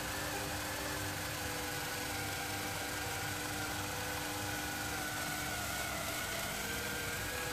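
Sharp robot vacuum cleaner running: a steady motor whir with a faint whine that wavers slowly in pitch.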